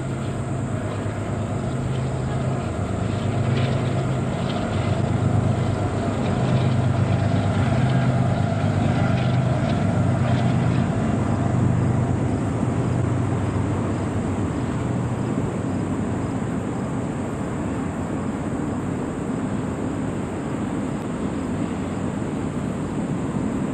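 Union Pacific train's diesel locomotives running, a steady low engine hum over a rolling rumble. It grows louder over the first few seconds and eases slightly in the second half.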